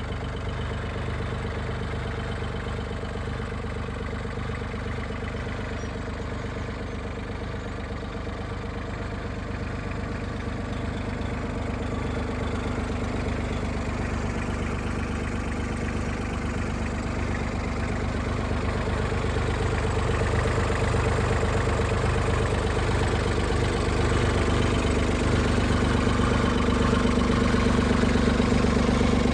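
Yanmar AC21 crawler tractor's 21 hp three-cylinder diesel engine running steadily, growing gradually louder through the second half.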